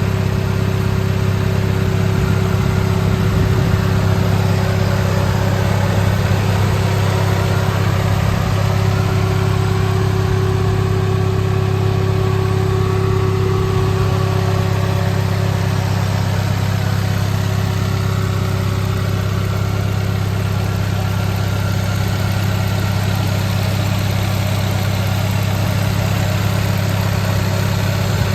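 Circuit-tuned 2008 Daihatsu Copen engine idling steadily, with an even, strong low hum.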